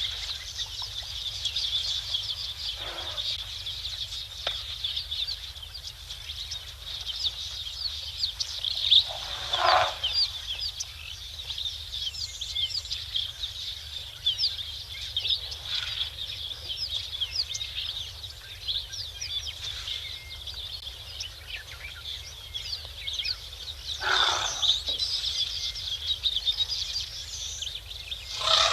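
A dense chorus of small birds chirping continuously, with four louder, lower calls from a larger, fowl-like bird spread through it. A steady low rumble sits underneath.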